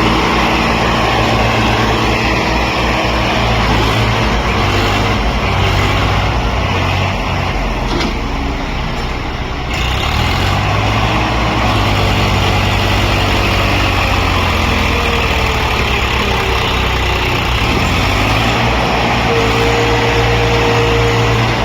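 Heavy diesel engine running loudly and continuously, its note shifting a few times as the revs change.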